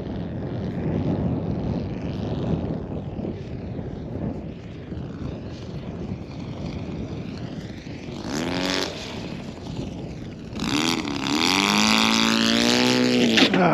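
Engine of an RC model aircraft, a Laser 200 in-line twin, running with a rough, noisy sound and wind on the microphone. About eight seconds in there is a short burst of pitched engine sound, and from about eleven seconds a loud pitched engine note that swoops down and up before levelling out, ending abruptly.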